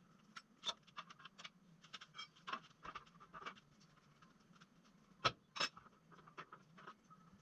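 Faint, irregular clicks and scrapes of hands working with tools and parts, with two sharper knocks a little over five seconds in.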